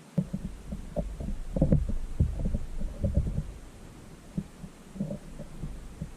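Small birds pecking at the dish of a feeder that the camera is mounted on: an irregular run of dull knocks and thuds carried through the mount, busiest in the first few seconds and sparser after.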